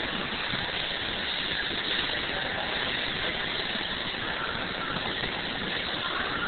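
Coin-operated ice cream truck kiddie ride running with a steady, even mechanical noise.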